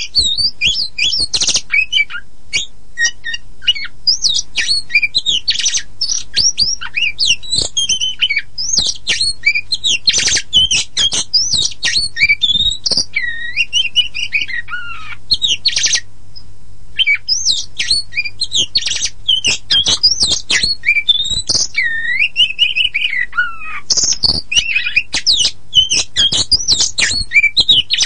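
Oriental magpie-robin (kacer poci) singing a fast, varied song of quick chirps and whistles, with long falling whistled slurs twice. There is a brief pause a little past halfway.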